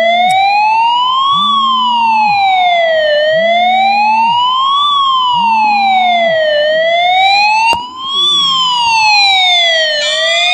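A loud wailing siren, its pitch rising and falling slowly about three times, each cycle lasting about three and a half seconds. A low tone pulses beneath it about every second and a half, and another higher sound joins near the end.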